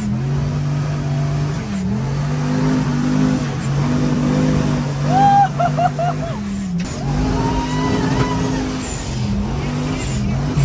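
Off-road vehicle's engine driving hard through deep sand under heavy throttle. Its pitch dips sharply and climbs back about three times, with a few short shouts from the occupants about halfway through.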